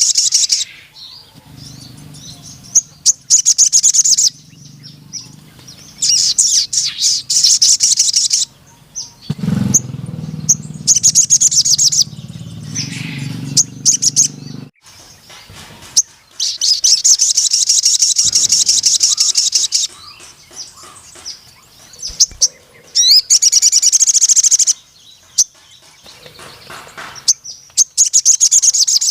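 A male sogon (ruby-cheeked sunbird) singing in long bursts of very rapid, high-pitched trilling. There are about half a dozen bursts, each lasting two to three seconds, with short pauses between them. A low hum runs under the first half.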